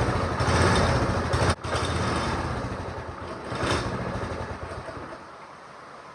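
Small go-kart engine running, cutting out for an instant about a second and a half in, then running on weaker and fading away until it dies about five seconds in. The owner puts its poor running down to a clogged carburetor jet.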